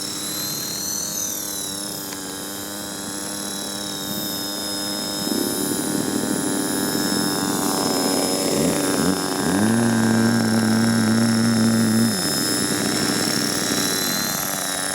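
Radio-controlled helicopter's motor and rotors whining, the pitch drifting up and down with the throttle. About five seconds in a lower hum joins, swells sharply near ten seconds, holds for about two seconds, then drops away.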